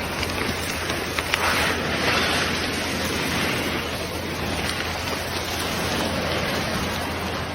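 Steady rushing noise of fast-flowing floodwater, with wind on the microphone; it swells briefly about one and a half to two seconds in.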